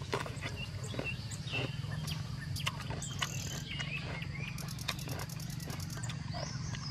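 Crunchy bites and chewing of a raw green vegetable, close to the microphone, against birds chirping and a steady low hum. A rapid insect trill sounds for about a second near the end.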